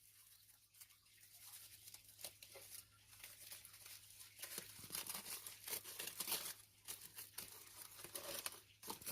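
Aluminium foil crinkling and rustling in short irregular crackles as a foil-wrapped roasted sweet potato is opened to check whether it is cooked through. The crinkling is faint and gets busier about halfway.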